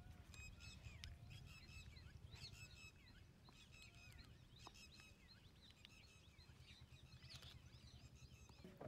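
Faint chirping of small birds, many short rising and falling calls scattered throughout, over a steady low rumble.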